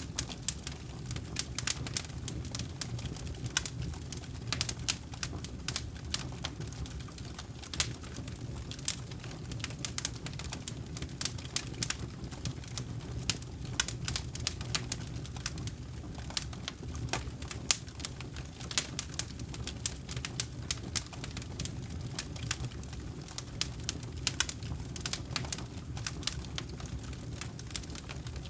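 Campfire burning, with many irregular sharp crackles and pops from the wood over a steady low rumble of the flames.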